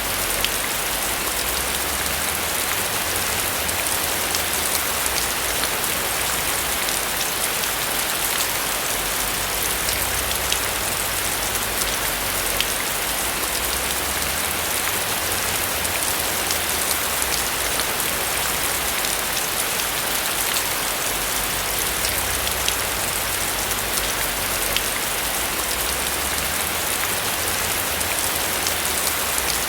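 Steady rain falling on a roof, an even hiss with many small drop patters that never lets up.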